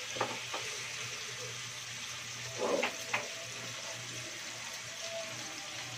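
Chicken pieces sizzling as they sauté in an oiled nonstick frying pan, a steady hiss. A few light clicks of the spatula against the pan come just after the start and again about three seconds in.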